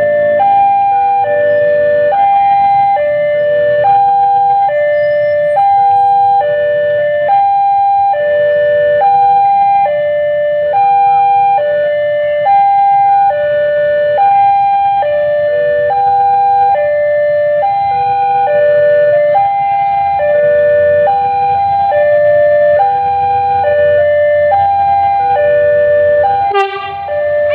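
Railway level-crossing warning alarm sounding continuously: an electronic three-note pattern stepping down from high to low, repeating about every two seconds, over a low rumble. A brief sharp sound cuts in near the end.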